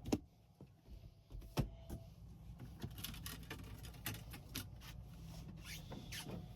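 Scattered clicks and light knocks, as of switches being set and things handled in a helicopter cockpit, with a sharper click at the start and another about a second and a half in, over a faint steady low hum.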